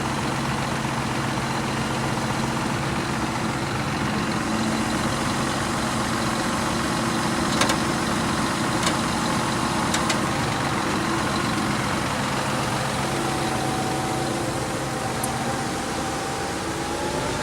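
Concrete pump's engine running steadily, with a few sharp clicks in the middle and a whine rising in pitch near the end.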